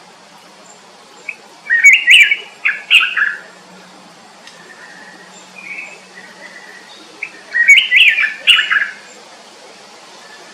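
A songbird singing two short phrases of quick warbled chirps, each lasting about two seconds and about six seconds apart, with faint calls from other birds in between.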